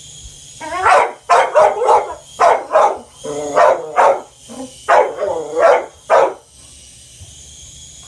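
Pet dog barking in a rapid string of about a dozen barks, which stops about six seconds in: agitated, excited barking at a helicopter.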